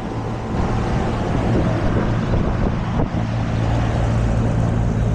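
ICP central air conditioner condensing unit running: a steady electrical hum from its Copeland reciprocating compressor under the even whoosh of the condenser fan, with some wind on the microphone.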